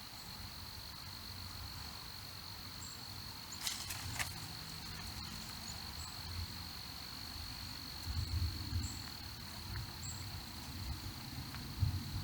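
Steady, high-pitched trill of insects such as crickets, with a few faint, very high chirps scattered through it. A couple of sharp clicks come about four seconds in, over a low outdoor rumble.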